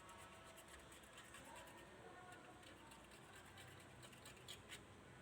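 Near silence with faint scratching and light clicks.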